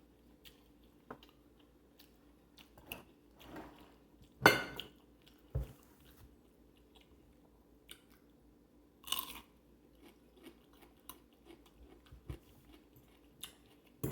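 Close-up eating sounds of food being bitten and chewed, with irregular small clicks and a few louder ones about four and a half and nine seconds in.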